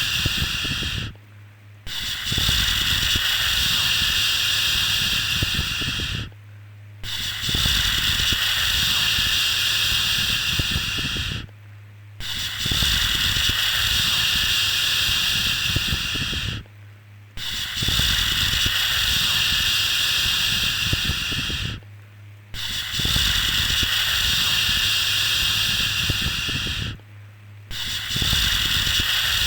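A repeated long 'shhh' shushing sound for soothing a baby to sleep. Each shush lasts about four and a half seconds, with a short pause of under a second between them, about every five seconds.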